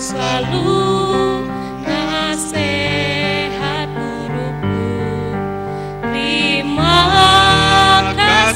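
A choir singing long, held notes over instrumental accompaniment.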